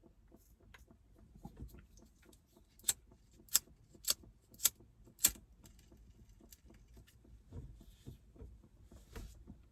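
Five sharp clicks in a row, about one every half second, with faint rustling around them.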